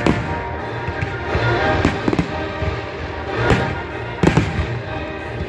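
Aerial firework shells bursting in the sky, several sharp bangs a second or so apart, over music playing.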